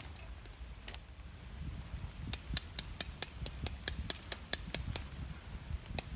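Tent peg being driven in with a hammer: rapid, evenly spaced metallic strikes, about five a second, starting about two seconds in.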